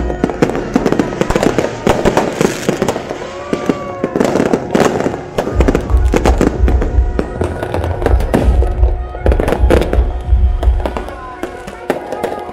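Aerial fireworks bursting and crackling in rapid succession over music, with heavy low booms through the middle.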